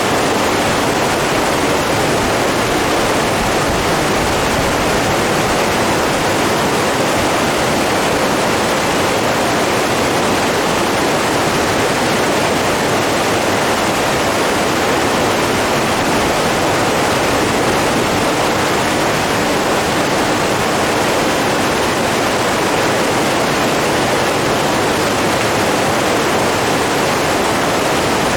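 Steady rushing of running water, an even unbroken roar with no single splashes standing out.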